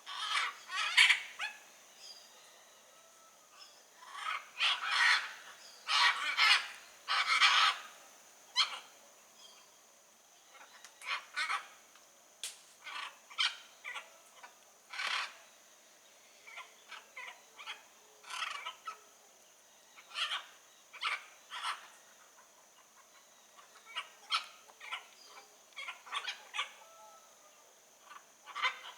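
Blue-and-yellow macaw squawking: repeated short, harsh calls in bunches, the loudest about a second in and between about four and eight seconds in, over a steady high background tone.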